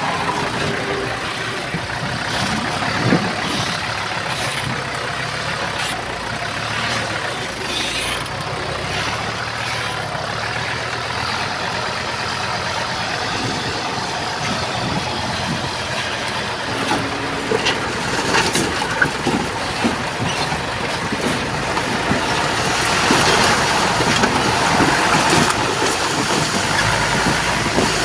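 Heavy construction machinery running steadily, the engines of a bulldozer and dump trucks, with a few scattered metallic clanks; it grows louder toward the end.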